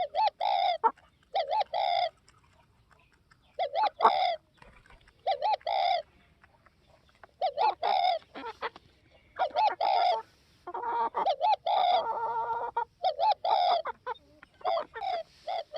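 Spotted dove cooing: short notes in pairs and small groups, repeated every second or two, with one longer, wavering call near the middle.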